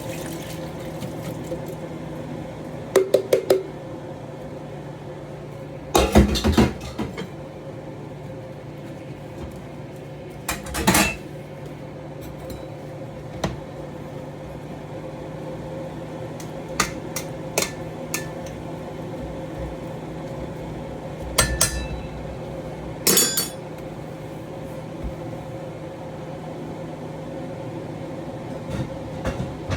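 Metal cooking utensils clinking and knocking against a cooking pan in a handful of short, separate clusters, over a steady low hum.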